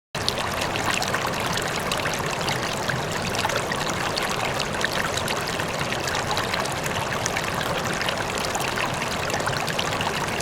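Water pouring and trickling steadily from a miniature DIY water pump's outlet.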